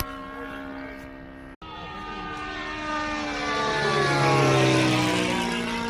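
Glow-fuel model aircraft engine of a radio-controlled Shinden running steadily in flight, breaking off for an instant about a second and a half in; it then grows louder and its pitch drops as the plane flies past.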